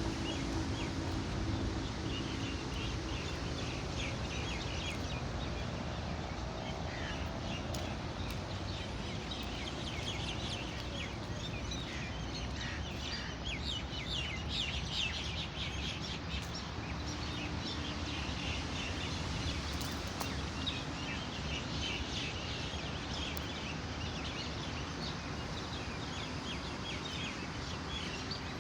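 Many small birds chirping and twittering in quick, overlapping calls, busiest through the middle and again later on, over a steady background noise.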